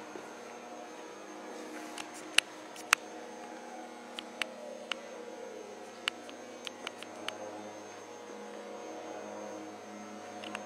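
CNC polystyrene foam cutting machine running with a steady hum. A whine glides down in pitch about halfway through, and sharp clicks come scattered through the middle, two of them loud.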